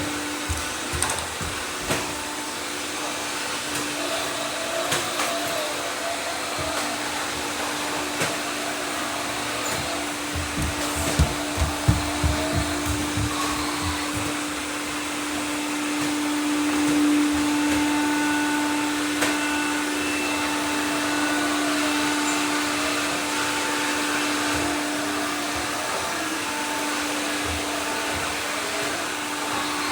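Several robot vacuums running at once: a steady motor and fan hum with one constant tone. A cluster of knocks comes about ten to thirteen seconds in.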